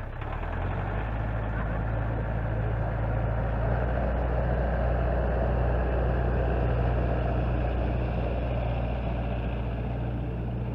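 Tractor engine running hard, picking up revs about half a second in and holding a steady, loud drone under load.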